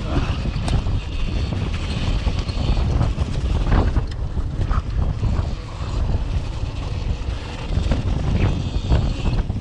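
Strong wind buffeting the microphone: a heavy, steady low rumble.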